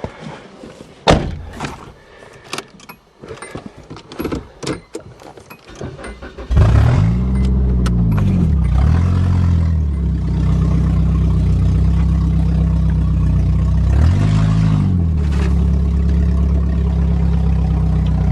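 A run of sharp knocks and clicks, then a Nissan's engine starts about six seconds in. It is revved up and down a few times and settles into a steady idle.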